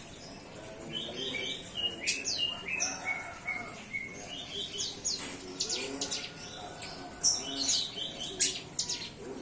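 Young ciblek gunung (a prinia), newly weaned from hand-feeding and starting to sing: a run of short high chirps and quick whistled notes, some in stepped series of repeated notes, others fast up-and-down sweeps.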